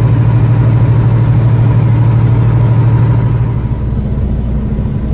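Heavy truck's diesel engine running steadily with a fast, even low throb. About three and a half seconds in, the engine note drops lower and gets a little quieter.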